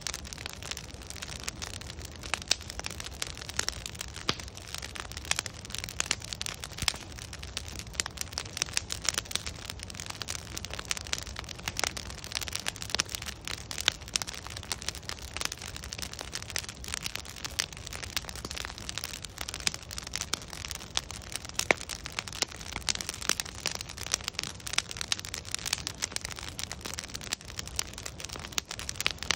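Wood fire burning steadily, logs crackling and popping irregularly over a low rushing hiss.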